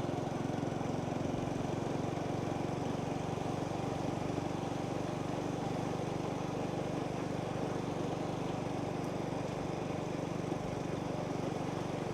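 Small motorbike engine running at a steady speed while riding, an even drone with no changes in pitch.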